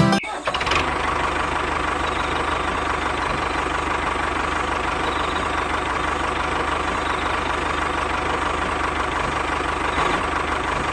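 Engine idling steadily with a fast, even chugging. It cuts in just after music stops.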